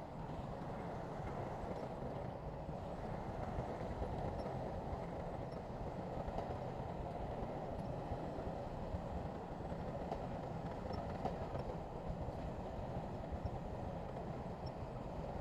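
Heavy earthmoving machinery's diesel engine running steadily under load, with no break or change in pitch.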